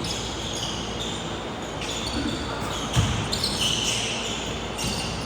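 Basketball bouncing on a hardwood gym court during play, with one loud bounce about three seconds in, over steady gym noise and high squeaks.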